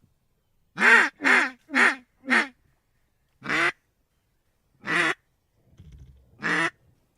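Loud mallard-style quacking: a quick run of four quacks, then three single quacks spaced a second or more apart.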